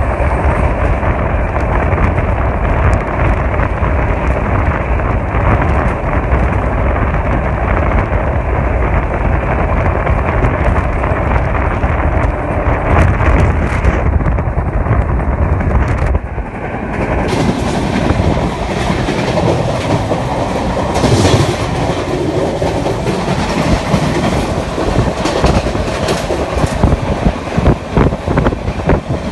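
Indian Railways express passenger coach running at speed, heard from its open door: a steady heavy rumble and rush of wheels on track. About sixteen seconds in, the sound changes, and from then on sharp clickety-clack of the wheels over rail joints stands out.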